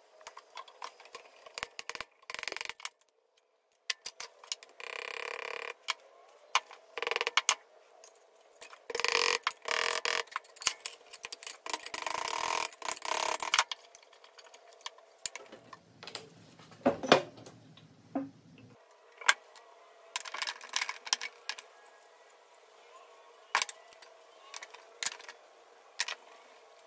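Pressed-steel toy truck body parts being handled and bent by hand on a steel anvil: a string of short metallic clinks and knocks, with a couple of longer scraping stretches.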